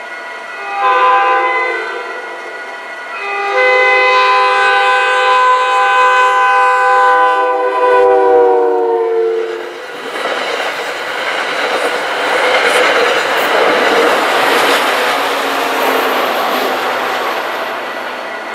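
Commuter train's multi-tone air horn, a short blast and then a long one whose pitch drops as the train passes at speed. The horn gives way to the rushing noise and wheel clatter of the passenger coaches going by.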